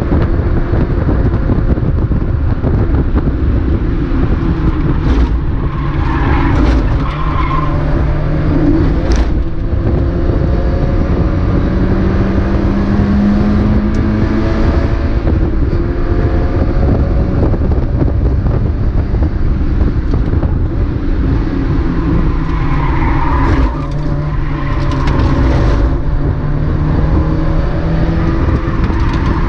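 Mazda MX-5 race car's four-cylinder engine running hard at racing speed, its pitch rising and falling as the revs climb and drop through the gears. The tyres squeal briefly twice, about six seconds in and again near the end.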